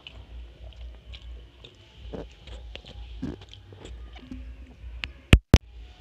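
Close-up chewing and small wet mouth clicks, with fingers working rice on a steel plate. Just after five seconds in come two sharp, loud knocks about a quarter second apart.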